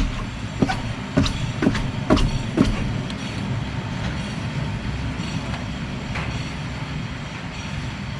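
Rear wheel bearing of a raised Kia rumbling low and steady as the wheel turns: the bearing is bad. A run of five sharp knocks about two a second comes in the first few seconds.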